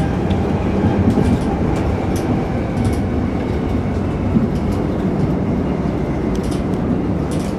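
Class 387 Electrostar electric train heard from inside the carriage, running along the line: a steady rumble of wheels on rail with scattered light clicks.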